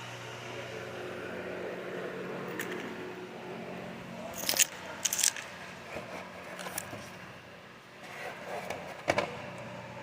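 Steady low hum with sharp clicks and scrapes from handling: a cluster about four to five seconds in, a few lighter ones after, and one more near the end.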